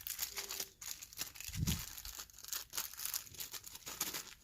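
Hands rummaging for lock-shimming shims and handling picking tools: irregular rustling with small clicks, and a soft low thump about one and a half seconds in.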